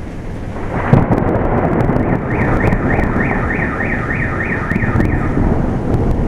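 A sudden thunderclap about a second in, followed by rolling thunder rumble over wind noise. Shortly after, a car alarm sounds a run of rising whoops, about three a second, for some three seconds before stopping.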